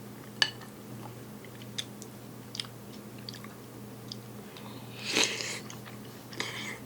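A person chewing a mouthful of rice dish topped with crispy fried onion: scattered small crunches, with a louder burst of crunching about five seconds in, over a faint steady hum.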